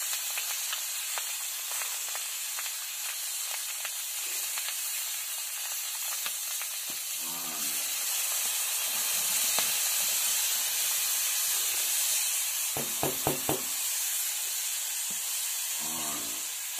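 Fish frying in hot oil on a flat griddle, a steady sizzling hiss. From about eight seconds in, a brown spice mixture poured over the fish makes the sizzle louder and steamier for several seconds.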